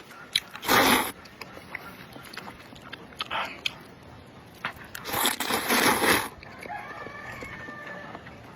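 Close-miked eating: a person biting and chewing, with scattered small clicks and two louder, longer noisy bursts, one about a second in and one around five to six seconds in.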